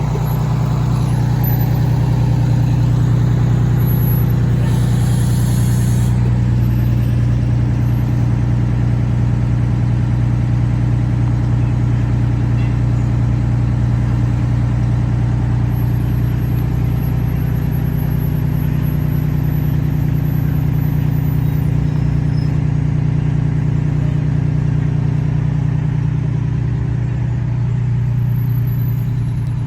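Fire truck's heavy diesel engine running steadily at low speed, a deep even drone, with a brief hiss about four seconds in.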